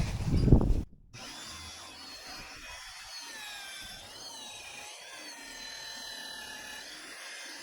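Magnetic drill boring through steel plate, a loud grinding-cutting noise that cuts off suddenly about a second in. Afterwards only faint, high warbling tones remain.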